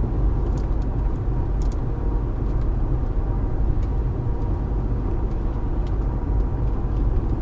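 Steady low road rumble inside the cabin of a Mercury Marauder cruising on a country road: tyre and engine noise, with a few faint small clicks.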